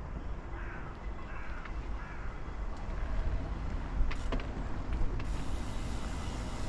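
Riding noise from a moving e-bike: a steady deep rumble of wind on the microphone and tyres on the road, with faint creaks early on and two sharp clicks about four and five seconds in.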